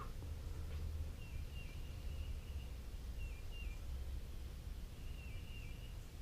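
A bird singing a short high phrase of stepped chirps, repeated about every two seconds, over a steady low background rumble.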